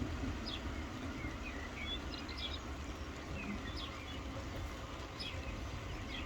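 Soft rain falling steadily, with several short, high bird chirps scattered over it.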